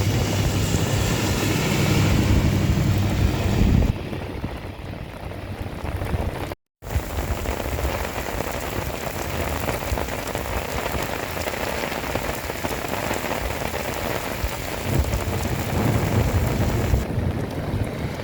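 Heavy rain pouring down, an even hiss and patter on surfaces, with a deep low rumble under it for the first four seconds that stops abruptly. The sound drops out briefly about seven seconds in, then the rain carries on steadily.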